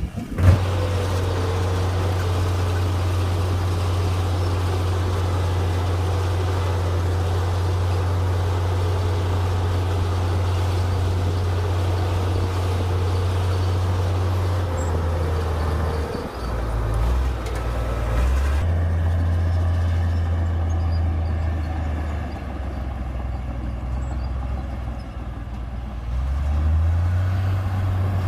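Komatsu D58P bulldozer's diesel engine running steadily with a deep drone as the machine pushes dirt. The engine note dips and shifts lower a little past the middle, and again shortly before the end, then picks back up.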